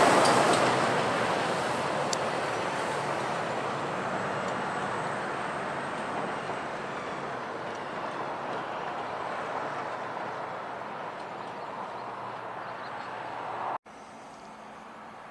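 A heavy lorry drives past, and its engine and tyre noise fade steadily as it moves away. Near the end the sound cuts out abruptly for an instant and returns at a lower level.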